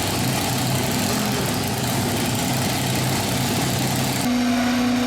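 A large vehicle engine running steadily with a low hum. About four seconds in, the sound switches abruptly to a steadier, higher-pitched hum.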